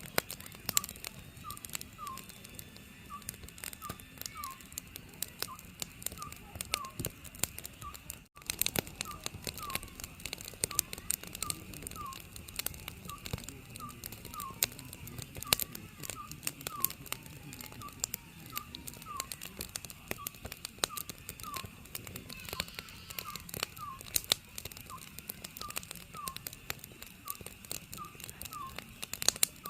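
An oriental scops owl calling over and over in a steady series of short hoots, more than one a second, over a wood fire crackling and popping. There is a brief dropout about eight seconds in.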